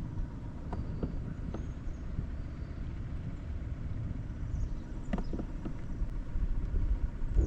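Wind rumbling on the microphone on a kayak, with scattered light knocks and taps that come more often near the end, and a few faint short high chirps.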